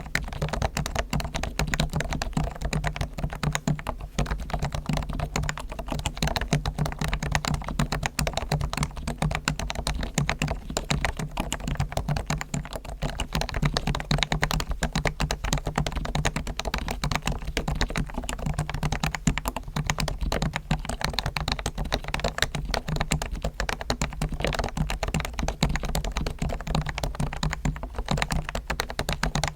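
Continuous fast typing on a Realforce R1 Topre electrostatic-capacitive keyboard, keystrokes following one another densely without a break. The board has been fully lubed with Krytox on springs and sliders, its stabilizers tuned and lubed, and foam dampening added.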